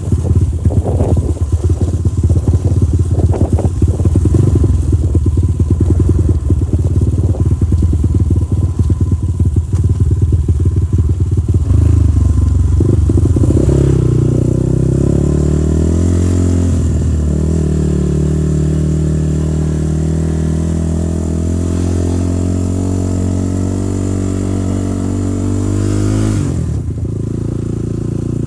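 Motorcycle engine running while riding: a rough, uneven rumble at first, then from about halfway a steadier engine tone whose pitch shifts and slowly climbs, dropping suddenly near the end.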